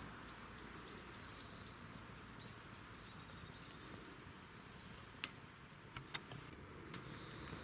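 Campfire crackling faintly, with a few sharp pops clustered in the second half over a faint steady hiss.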